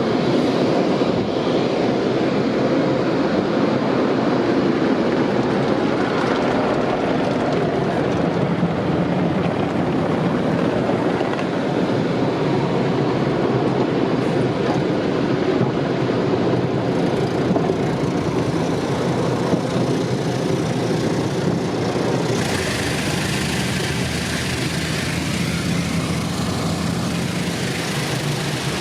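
Tunnel car wash equipment working on a car, heard from inside it: a loud, steady rumbling wash noise. About 22 seconds in, a brighter, hissing spray-like sound takes over.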